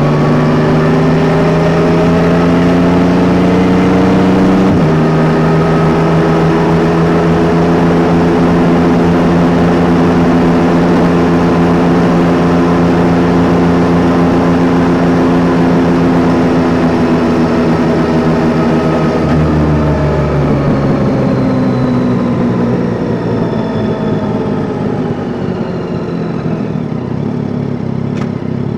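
Yamaha Tracer 9 GT's inline three-cylinder engine pulling under acceleration, with a sudden drop in revs about five seconds in as it shifts up. It then holds a steady cruise, and the revs fall away over the last several seconds as the throttle is rolled off.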